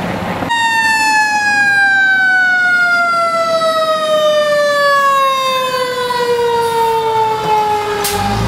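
Fire engine siren sounding one long tone that starts about half a second in and falls slowly and steadily in pitch, winding down, with no rise and fall of a wail.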